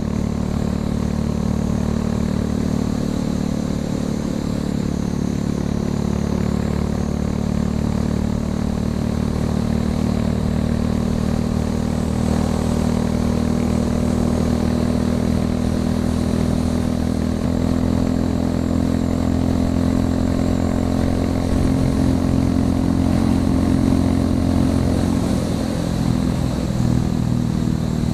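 Royal Enfield Classic 350 single-cylinder engine running with its muffler tip removed, an open, unsilenced exhaust note. It runs steadily, a little louder in the second half.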